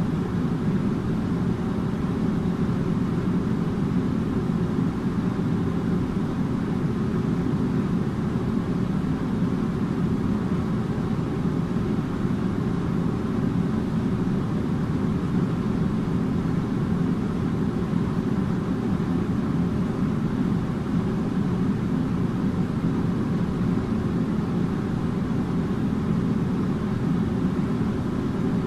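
Air conditioner running steadily: an even, low rush of air and hum that doesn't change, with faint steady tones above it.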